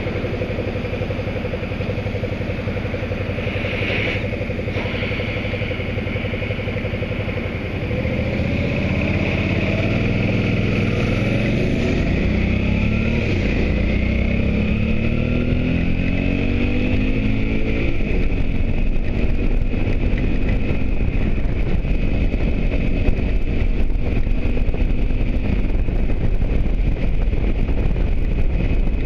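Motorcycle engine running steadily at low speed. About eight seconds in it pulls away, its pitch climbing in several rising sweeps as it shifts up through the gears. After that it runs at speed with growing low rushing noise.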